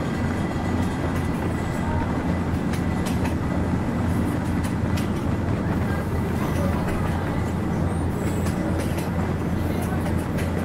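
Passenger train running along the track, heard from inside a carriage: a steady low rumble with occasional sharp clicks from the wheels and rails.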